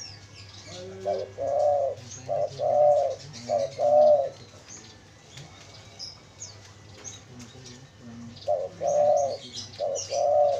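Spotted dove cooing: two phrases of about four soft, arched notes each, the first about a second in and the second near the end, with high chirps of small birds in the background.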